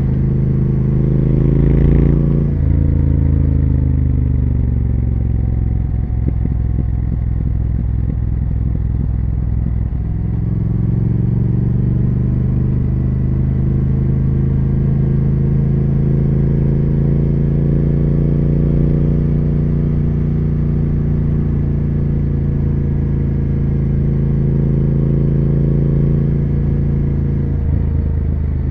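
Triumph Speed Twin 1200 parallel-twin motorcycle engine and exhaust on the road. The revs climb and drop sharply about two seconds in, then fall away with a light crackle. They build again about ten seconds in and settle into a steady cruise.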